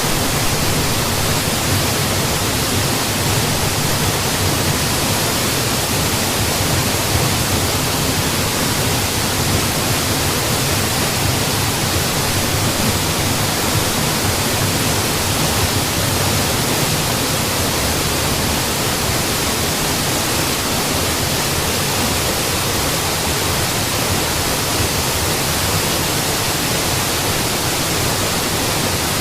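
Waterfall: falling water making a steady, unbroken rush with no changes.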